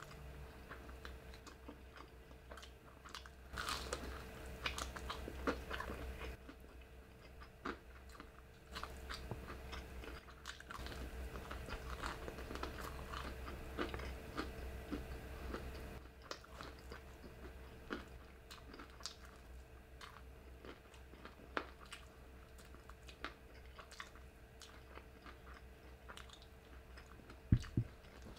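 Close-miked biting and chewing of crunchy fried chicken breading: irregular crackles and crunches, busiest through the first half, with two sharp knocks near the end.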